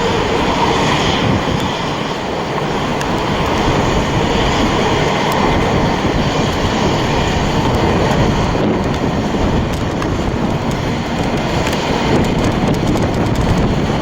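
Steady loud roar of a jet airliner's engines.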